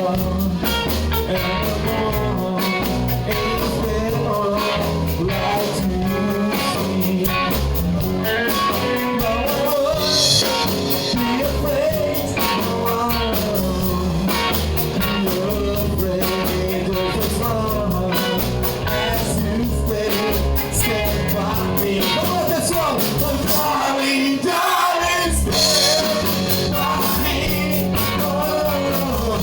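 Live rock-and-roll band playing with a singer, electric guitar and drums keeping a steady beat; the bass drops out briefly near the end.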